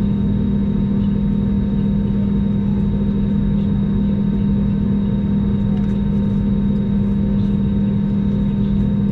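Airbus A321 cabin noise with the engines running at idle on the ground: a steady, unchanging low drone with a constant hum.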